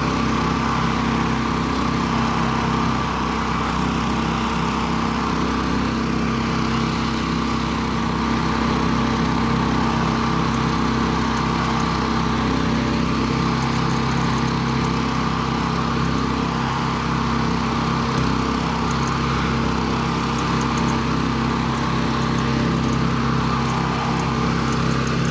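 Homemade karakat's engine running steadily under load while the vehicle crawls through deep snow in the low range.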